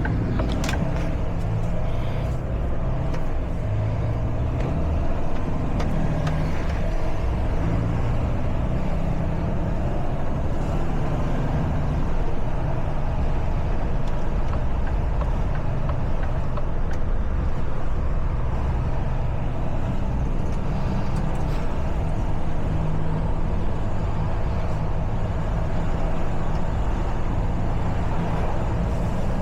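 Truck's diesel engine running steadily under way, a low drone with road and traffic noise, with a few sharp clicks near the start.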